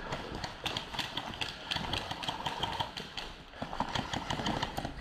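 Airsoft electric guns firing in rapid rattling bursts, with a quick even run of shots about two seconds in.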